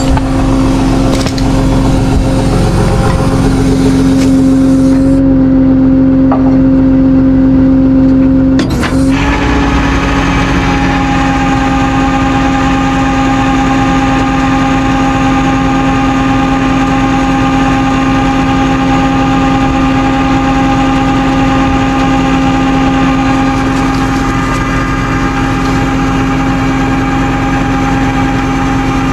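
Tow truck's engine running steadily with a constant hum. About nine seconds in there is a short knock, and the hum shifts, with a higher steady tone joining it.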